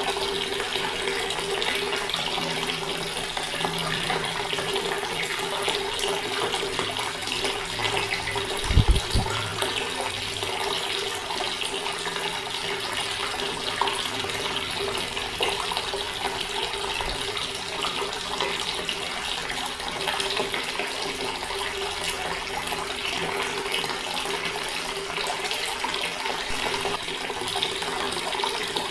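Water running steadily from a tap and splashing below it, with a brief low thump about nine seconds in.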